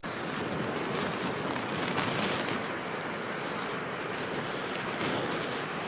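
Blizzard wind blowing against a collapsed tent, a steady rushing noise with slight swells.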